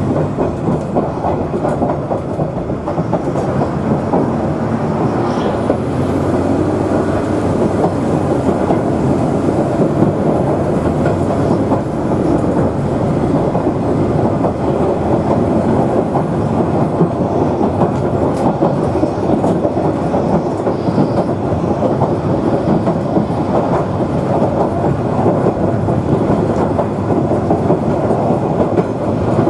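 Queensland Rail 2000 class diesel railmotor running steadily along the track, its engine and wheels making a continuous rumble.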